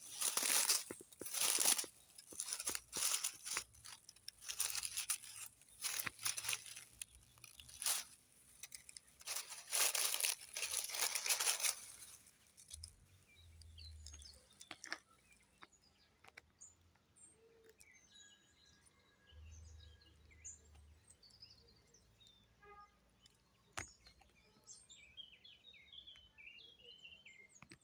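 Repeated crunching and rustling for about the first twelve seconds, then small birds chirping.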